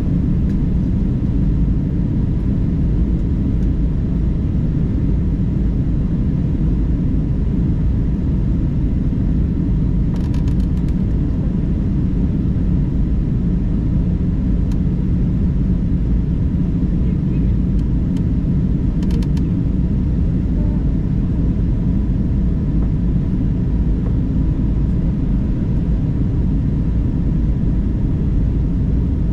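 Steady low rumble of an airliner cabin during descent: engine and airflow noise, with a faint steady hum. Two brief clicks or rattles, at about ten and nineteen seconds.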